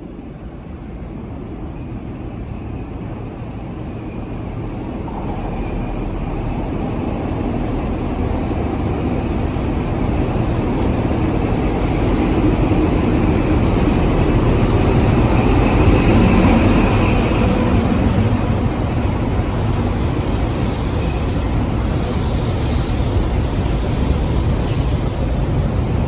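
High Speed Train with Class 43 diesel power cars approaching and running in, its engine and wheel rumble growing steadily louder to a peak a little past halfway, then holding on at a slightly lower level as the train passes.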